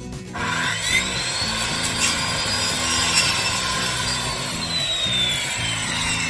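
Corded electric saw starting up and cutting wood. Its motor whine climbs quickly about half a second in, holds, then slowly falls in pitch through the second half.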